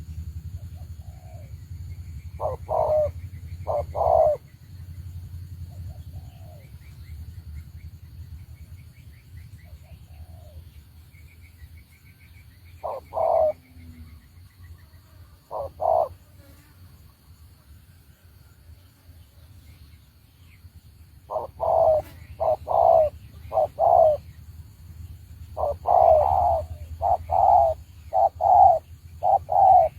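Spotted dove cooing: short coos in a couple of pairs early on, then a quick run of repeated coos from about two-thirds of the way in. Fainter chirps of small birds and a low rumble lie underneath.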